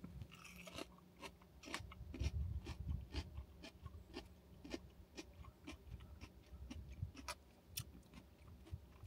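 A person chewing crunchy pickle bites: an irregular run of close, crisp crunches, several a second at times.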